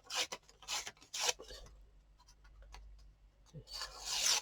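Paper being handled and rubbed against a page: three short scratchy strokes in the first second and a half, then a longer rub near the end.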